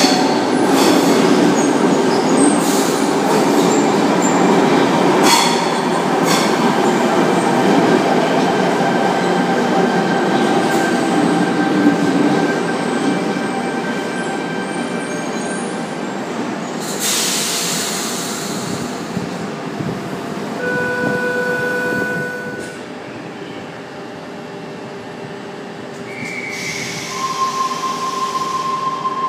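Sydney Trains Tangara electric train braking into an underground platform, its wheels and brakes rumbling and squealing as it slows to a stop over the first half. Then a burst of air hiss, a short steady electronic tone, and near the end a longer beeping tone with more air hiss as the doors close.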